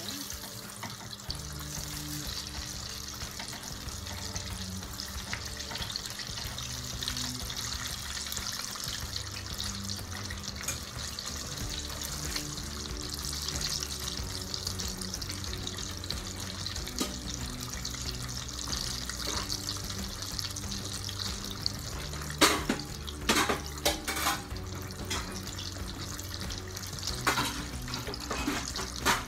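Breaded chicken deep-frying in a pot of hot oil: a steady bubbling sizzle, with background music underneath. A few sharp clicks come in a cluster about two-thirds of the way through and again near the end.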